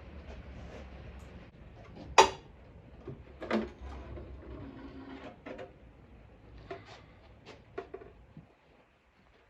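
Separate knocks and clanks of tools and parts being handled on a workbench, one much louder knock about two seconds in, then lighter ones spread out.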